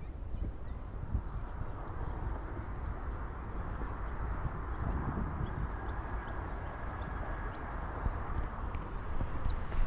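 Outdoor park ambience: a steady background murmur with scattered low thumps, and short high bird chirps every second or so.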